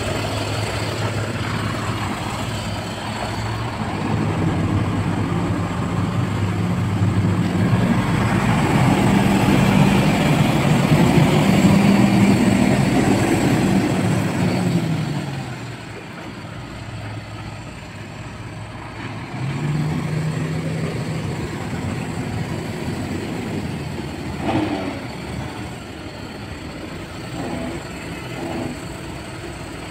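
Garbage truck's diesel engine running, speeding up for about ten seconds while it drives the loading hydraulics, then dropping back to idle about halfway through, with a second brief rise a few seconds later.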